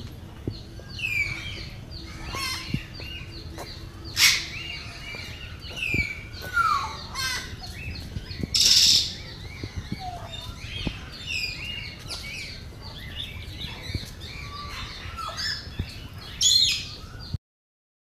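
Several birds chirping and whistling, with many short, overlapping calls and two louder noisy bursts about four and nine seconds in. The sound cuts off abruptly near the end.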